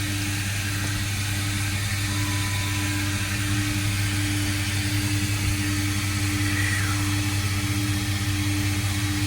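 Car's engine idling with the climate-control blower running steadily, a constant hum under a rushing of air from the vents. The air conditioning is not cooling, which the owner puts down to a need for Freon.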